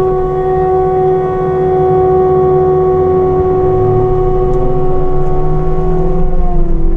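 CAT 299D3 XE compact track loader running a Fecon Blackhawk forestry mulcher: a loud, steady whine over engine rumble, dipping slightly in pitch near the end.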